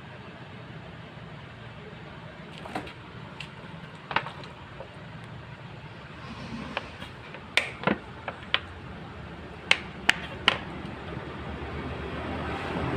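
Steady street-traffic hum with scattered sharp clicks and knocks, several close together in the middle, and a vehicle's engine growing louder near the end.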